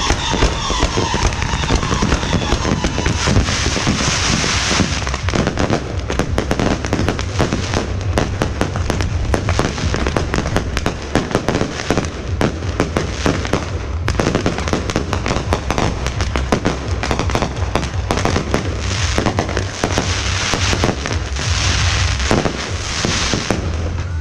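Fireworks going off in a dense, continuous barrage of rapid crackles and bangs, with thicker stretches of hissing crackle a few seconds in and again near the end.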